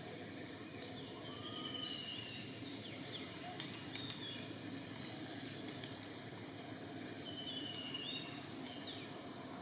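Short high-pitched chirping calls from a small animal or bird, a few around a second and a half in and again near the end, over a steady background hiss. Scattered clicks and taps come in between, the sharpest around the middle.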